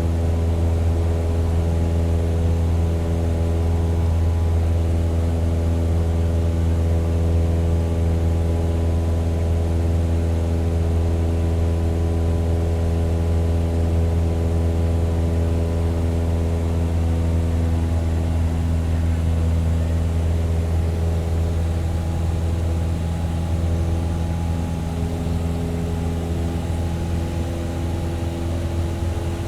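Propeller aircraft engine droning at a steady pitch, with a deep hum and a ladder of overtones. It grows slightly quieter in the last few seconds.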